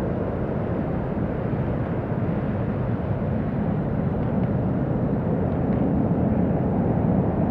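Airbus A400M Atlas's four turboprop engines, a loud, dense rumble that grows slightly louder toward the end.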